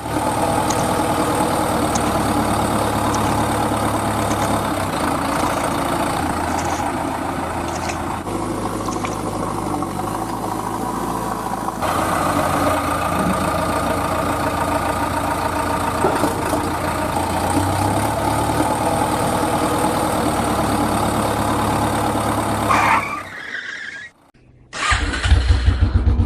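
Vehicle engine running steadily. Near the end it cuts out briefly, then a rapid, pulsing engine sound starts.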